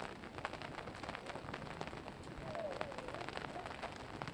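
Flowing floodwater: a steady rush of water, full of small splashes and spatters.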